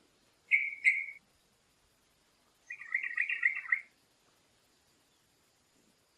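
A bird calling: two short, clear notes about half a second in, then a longer, rapid chattering phrase of about a second around the middle.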